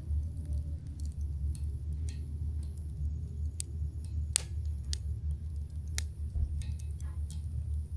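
Wood campfire crackling: irregular sharp pops and snaps, the loudest about four seconds in, over a steady low rumble.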